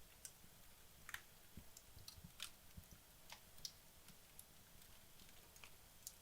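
Faint, scattered crackles and ticks from wood logs burning down in a fireplace, about one or two small pops a second over a low hiss.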